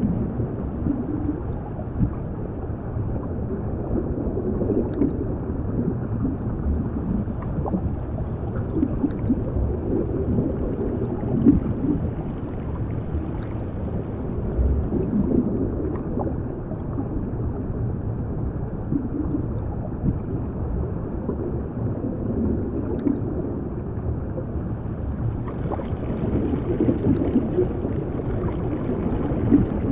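Underwater water sound: a steady, muffled low rush of water with gurgling bubbles that swell and fade, and a few faint scattered ticks.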